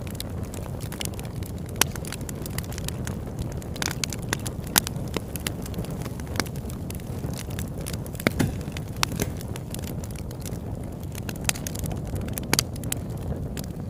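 Campfire burning with irregular sharp crackles and pops over a steady low rush.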